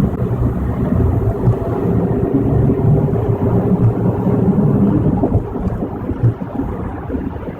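Steady low road and tyre rumble with wind noise inside a car driving at freeway speed, easing slightly about two-thirds of the way through.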